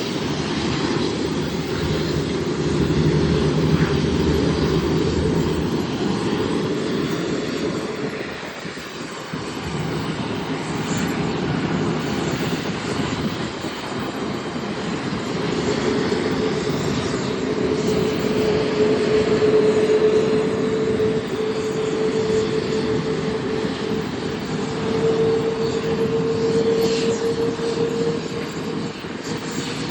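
Aircraft engines running steadily, with a steady hum that comes in about halfway through and grows stronger.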